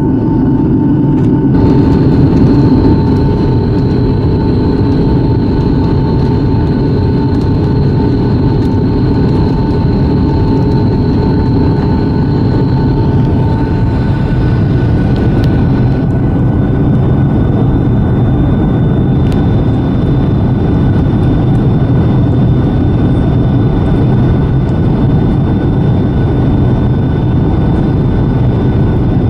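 Boeing 757-200's jet engines running with a steady, loud roar and thin whining tones on top. Two of the tones stop about halfway through, and a different high whine comes in a few seconds later.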